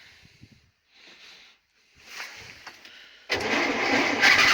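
Żuk van's S-21 four-cylinder petrol engine being cranked by its starter in hard frost: a loud burst of cranking starts suddenly about three seconds in and cuts off abruptly. The engine is badly frozen, and its spark is too weak from worn plugs and HT leads.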